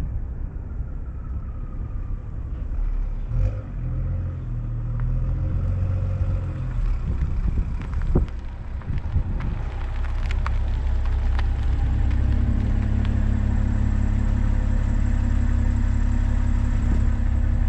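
BMW M340i's turbocharged B58 inline-six with an aftermarket downpipe, running with a low exhaust rumble. About two thirds of the way in it settles into a louder, steady drone, with a few sharp clicks shortly before.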